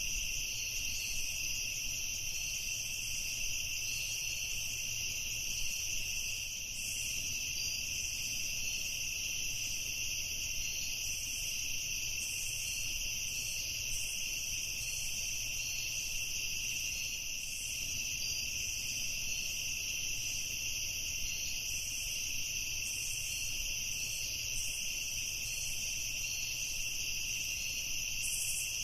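Steady chorus of crickets trilling without a break in two high pitches, over a faint low rumble.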